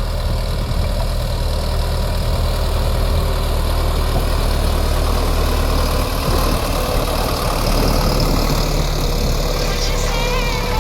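Sonalika Tiger 65 tractor's common-rail diesel engine running steadily.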